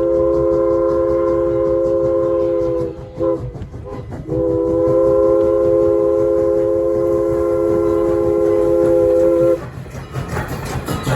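Locomotive chime whistle sounding a chord of several notes in two long blasts. The first blast ends about 3 seconds in, a short toot follows, and the second long blast runs from about 4 seconds to 9 seconds in. Train running noise rumbles underneath.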